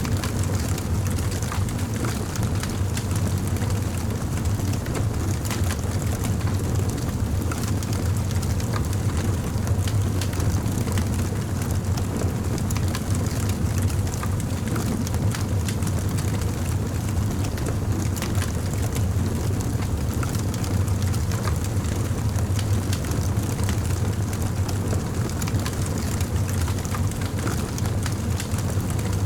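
Campfire burning: a steady low rumble of the flames with frequent small crackles and pops from the burning wood.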